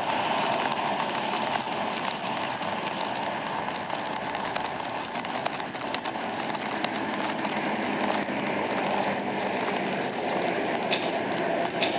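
A car driving fast, heard from inside: a steady rush of road and wind noise with the engine running under it.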